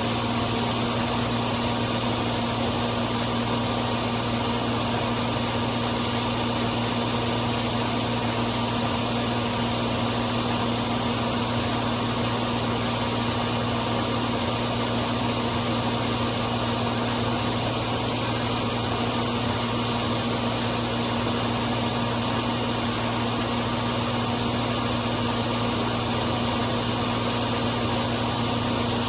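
John Deere 4230's six-cylinder diesel running steadily at working speed, driving a New Holland 355 grinder-mixer's hammermill as it grinds corn: a constant mechanical drone with a steady hum and no change in pitch.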